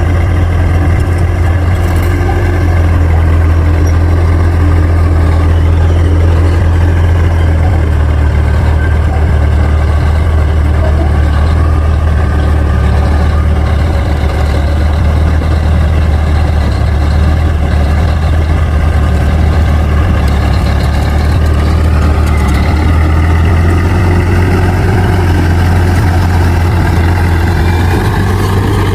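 Bulldozer's diesel engine running under steady load with a loud, low drone; its note rises about two thirds of the way through and again near the end as the revs come up.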